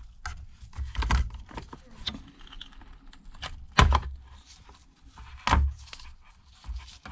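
Small metal repair tools clicking, scraping and knocking against an opened iPad's housing while its logic board is being pried loose, with three sharper knocks about one, four and five and a half seconds in.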